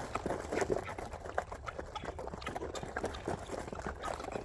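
A poultry flock of chickens, ducks and guinea fowl calling, a busy jumble of short overlapping calls.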